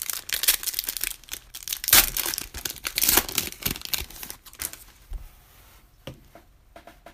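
Foil wrapper of a Panini Prizm basketball card pack being torn open and crinkled, with a dense crackle that is loudest about two and three seconds in, then a few scattered clicks of handling near the end.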